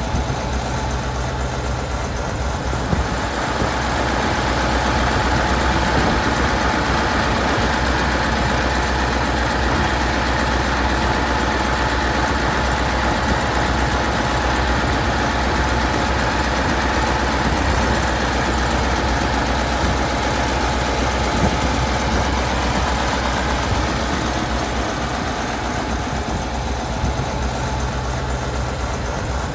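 Massey Ferguson V8 tractor engine running steadily, growing louder a few seconds in and easing off a little near the end.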